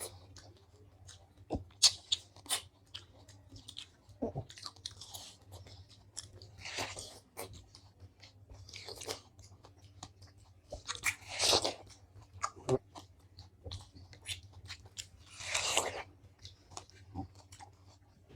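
Biting into and chewing watermelon slices, close to the microphone: scattered short, sharp bite clicks, with three longer, louder bites about seven, eleven and sixteen seconds in, as the flesh is eaten down to the white rind.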